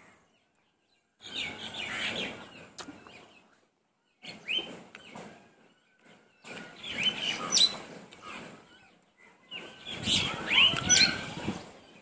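Close-miked chewing and wet mouth sounds of rice and vegetable curry being eaten, in four bursts of about two seconds with silence between, carrying short high squeaks.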